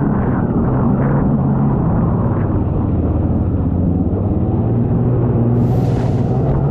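Jet ski engine running steadily under way, its drone dropping slightly in pitch about half a second in and then holding. A short rushing hiss comes near the end.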